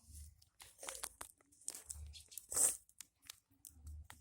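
Irregular crackling and crinkling handling noises, a quick run of short rustles, with one louder burst about two and a half seconds in.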